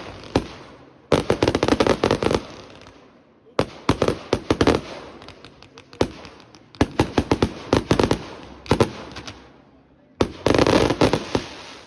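Fireworks display: volleys of rapid sharp bangs and crackles in about five clusters, each dying away before the next volley a second or two later.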